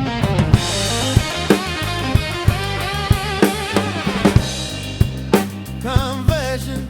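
A rock song with the drum kit to the fore: kick and snare hits about twice a second over a steady bass line, with other pitched instruments above it that waver near the end.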